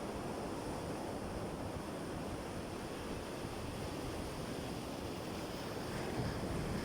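Sea waves washing on the shore, a steady rushing surf that swells a little near the end.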